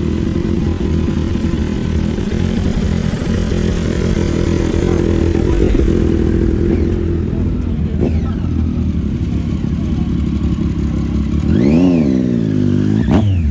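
Motorcycle engines running with a steady rumble; near the end one is revved up and drops back, then blipped once more quickly.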